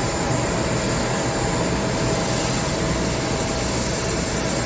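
Jet airliner engines running steadily: an even rushing noise with a faint high whine over it.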